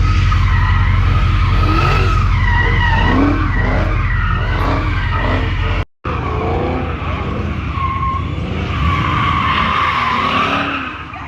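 Car tyres squealing with the engine revving as a car slides on pavement, in two stretches broken by a sudden cut about halfway through.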